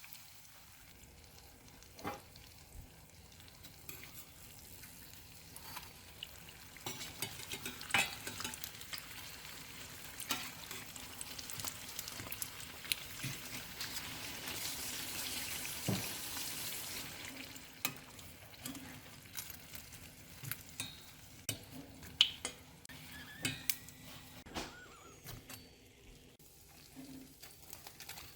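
Turon (plantain slices rolled in lumpia wrappers) sizzling in hot frying oil, with scattered sharp taps and clicks. The sizzle swells for a few seconds past the middle.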